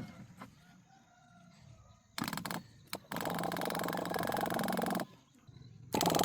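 A harsh, rapidly pulsing mechanical sound in bursts: a short one about two seconds in, a longer one of about two seconds, and another that starts near the end, after a single click at the very start.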